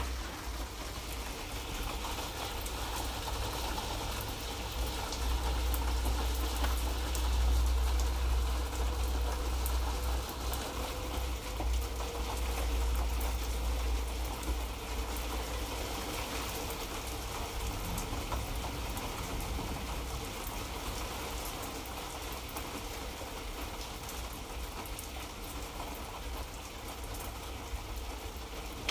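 Light rain falling steadily: an even hiss of rain with a fine patter of drops, over a low rumble that swells for a few seconds early in the stretch.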